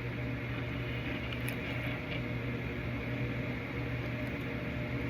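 Steady low hum with an even hiss: constant room background noise, with a few faint ticks.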